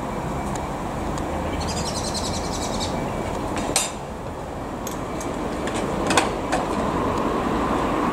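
Class 379 electric multiple unit pulling away with a steady rumble, a bird trilling about two seconds in, and two sharp metal clanks near four and six seconds in from the manual level-crossing gates being worked.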